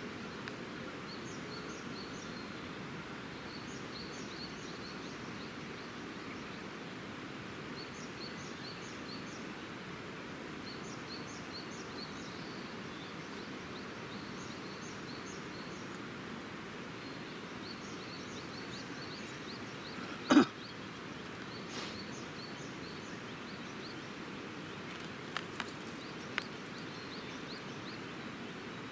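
Steady outdoor hiss with a bird repeating short, high chirping phrases every second or two. A single sharp pop about twenty seconds in, likely wood snapping in the campfire, is the loudest sound, and a few smaller crackles come near the end.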